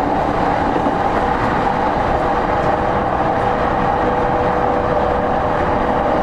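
Running noise inside a JR East E231-0 series commuter train's motor car at speed: a loud, steady rumble of wheels on rail with a steady whine held at one pitch throughout.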